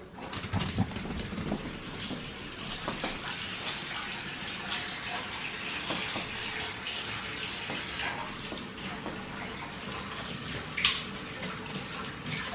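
Water running steadily from a tap into a sink, with a few light knocks.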